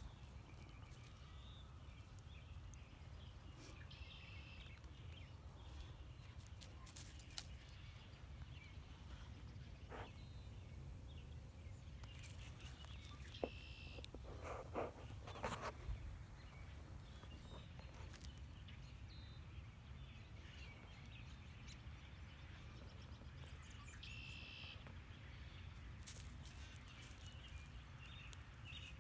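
Faint outdoor ambience: birds chirping in the distance every few seconds over a steady low rumble, with a brief cluster of rustling footsteps on dry grass and dirt about halfway through.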